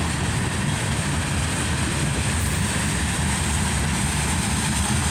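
CSX mixed freight train's cars rolling past at speed: a steady, continuous low rumble of wheels on the rails.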